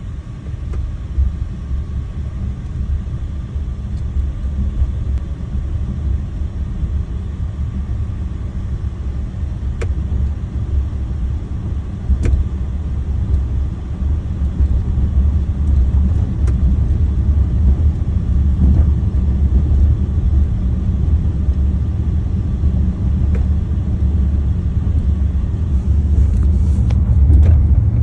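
Low road and tyre rumble inside a moving Volkswagen ID.4, an electric car, slowly growing louder, with a few faint, irregular clicks from the door, the clicking noise still present after the second recall repair.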